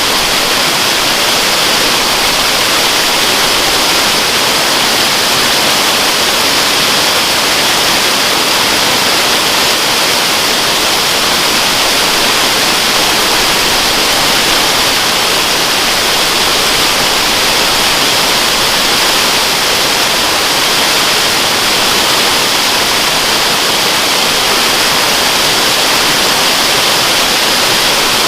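Waterfall rushing: a loud, steady hiss of falling water, even and unbroken, strongest in the high range.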